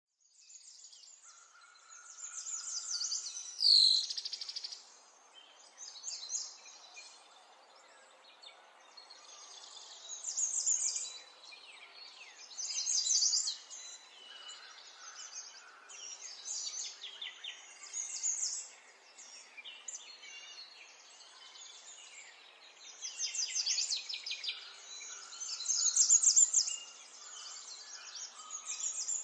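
Small birds chirping in high, rapid trilling bursts that come every few seconds, with one sharper falling call about four seconds in, over a faint steady hiss.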